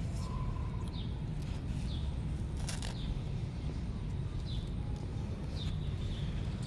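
Outdoor ambience: a bird gives short high chirps about once a second over a steady low rumble, with a single sharp click about three seconds in.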